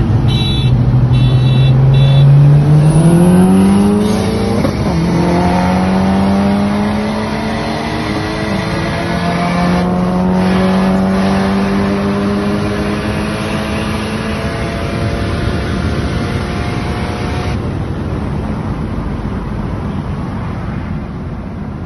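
Two turbocharged cars accelerating hard from a rolling start, engines revving up with pitch climbing, dropping at a gear change about five seconds in, then pulling steadily as the sound fades away.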